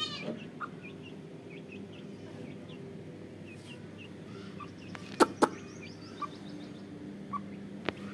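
Aseel chicks peeping: short, high cheeps scattered throughout. Two sharp clicks a little past five seconds in and another near the end, over a low steady hum.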